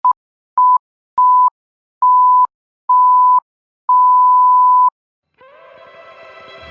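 Six electronic beeps, all at the same pitch, each longer than the one before, the last held for about a second. Near the end, music fades in softly.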